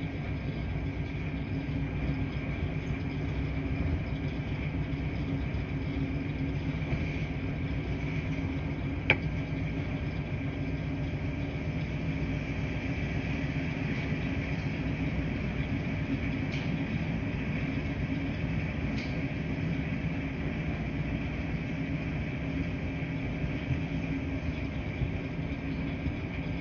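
Laundry-room washing machines running with a steady low hum and rumble, and a single sharp click about nine seconds in.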